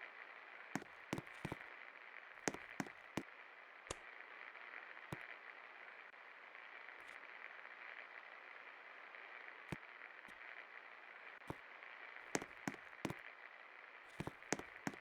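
1979 Jamuna 56-inch ceiling fan running, a steady whir, with scattered irregular clicks and crackles throughout.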